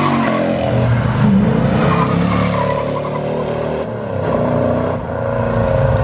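Car engine revving, its pitch rising and falling several times, then settling into a steady low rumble near the end.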